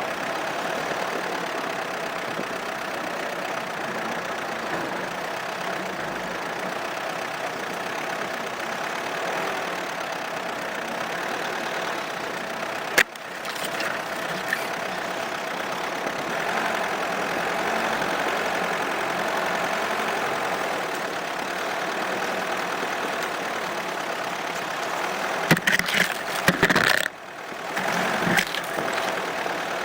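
Opel Monterey SUV driving through snow, with a steady run of engine and road noise. A single sharp knock comes about halfway through, and a cluster of knocks and thumps comes a few seconds before the end.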